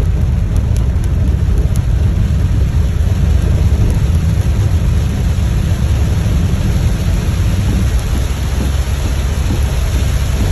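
Heavy rain drumming on a moving car, heard from inside the cabin as a steady loud hiss over a deep, constant rumble.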